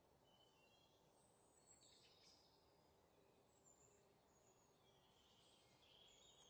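Near silence, with faint, scattered high bird chirps.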